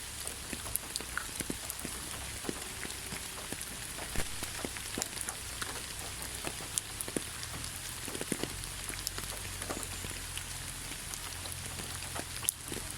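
Steady rain falling in a forest: a constant hiss with many separate drop hits at irregular intervals.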